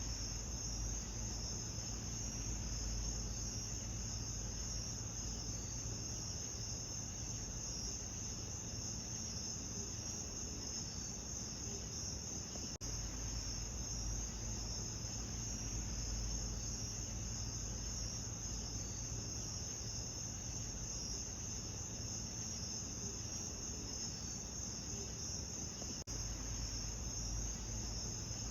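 A steady chorus of crickets chirping in a dense, unbroken high trill, over a low steady hum. The recording is looped, with faint seams about 13 and 26 seconds in.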